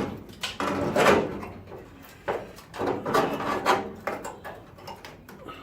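Tools being rummaged through: a series of clattering, scraping knocks of metal things being moved about, dying away near the end.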